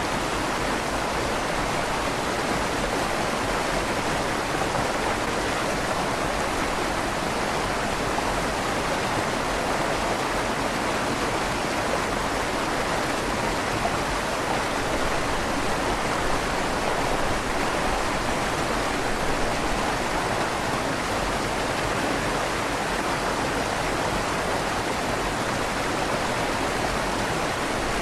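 River water rushing steadily through the tunnel under a stone bridge, with a slight echo off the stone walls.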